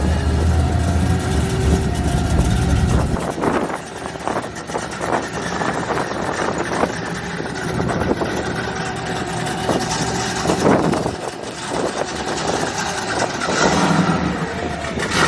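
A car engine running with a deep low rumble that drops away about three seconds in, leaving quieter engine noise and general background clatter.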